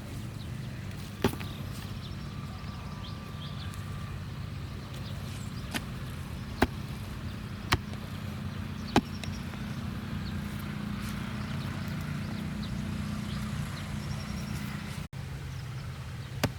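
A handful of sharp knocks, irregularly spaced about a second or more apart, over a steady low hum.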